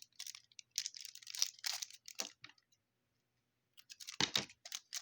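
Foil trading-card pack wrapper being torn open and crinkled, in short rustling bursts over the first two and a half seconds. After a brief pause, a louder handling rustle with a dull thump comes about four seconds in.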